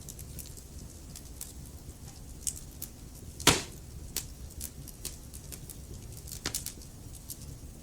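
Wood fire crackling: irregular small pops and ticks over a low rumble of burning logs, with one loud snap about halfway through and a smaller one near the end.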